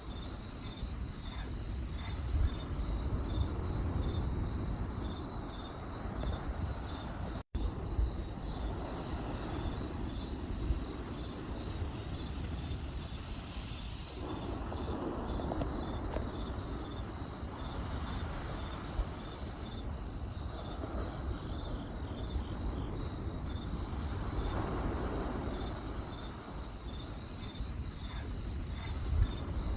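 Crickets chirping in a steady, pulsing high trill over the low rushing rumble of a campfire, with occasional crackles and pops from the burning wood.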